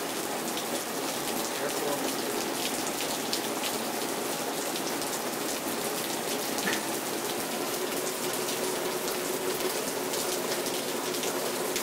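Rain from a rainstorm falling steadily, with many separate drop hits.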